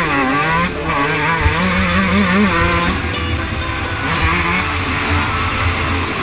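Suzuki RM125 two-stroke motocross engine being ridden hard, its revs rising and falling in quick swings for the first few seconds, then running steadier.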